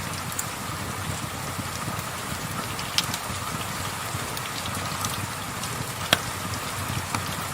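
Steady rain with a fireplace crackling, scattered small pops and two sharper pops about three and six seconds in.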